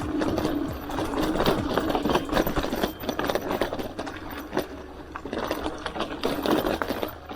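Hardtail mountain bike rattling over rough trail: a dense, rapid clicking and clattering that comes in two loud stretches, easing off in the middle.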